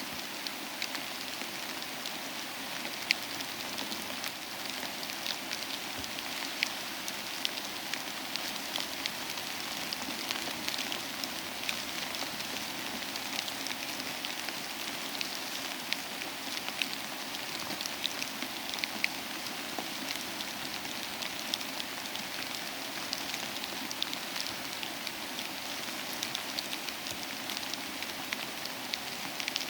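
Steady soft rain with scattered sharp crackles and pops from a wood fire in a fireplace.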